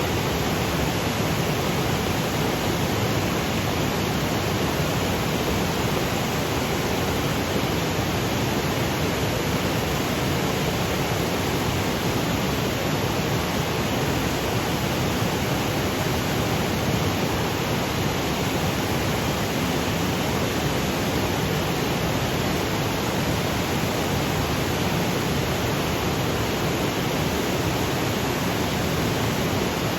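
Waterfall cascading over granite boulders: a steady, even rush of falling water that does not change.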